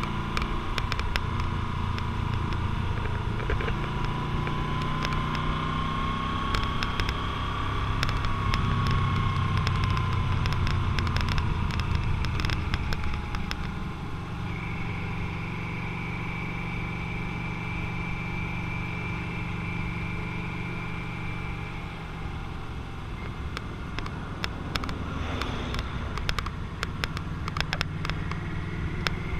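Motorcycle engine running under way, its pitch slowly rising and falling, and the engine eases off about halfway through.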